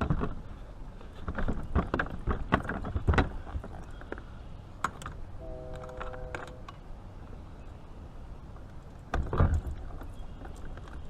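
Knocks and clicks of fishing gear being handled in a kayak, with a quick run of them in the first three seconds and a heavier thump about nine seconds in. About six seconds in there is a short steady tone with several pitches, lasting about a second.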